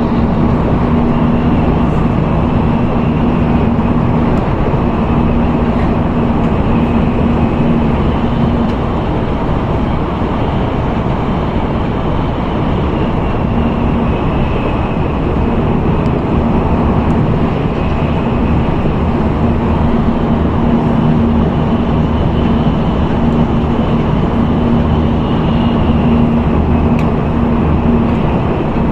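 Steady running noise heard inside an N700A Shinkansen car at speed: a dense rumble and rush with a steady low hum that fades for a few seconds near the middle and returns.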